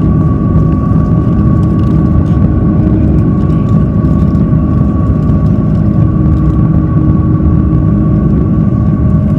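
Airbus A330-300 jet engines heard from inside the cabin: a loud, steady rumble with steady whining tones above it. The pitch does not change.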